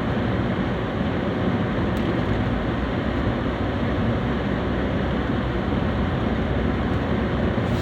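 Steady vehicle noise heard from inside a Nissan Juke SUV's cabin: an even, low engine and road rumble.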